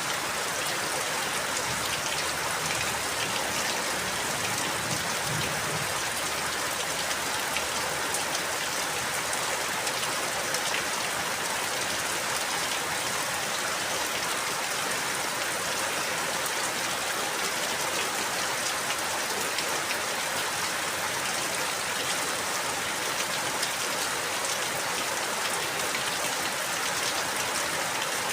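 Steady rain falling, a dense even hiss of drops with fine pattering ticks and no letup.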